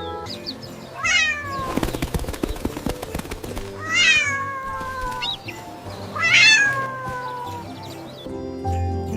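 A cat meowing three times, each meow jumping up in pitch and then sliding down, over soft background music. Between the first and second meow there is a rapid rattle of clicks.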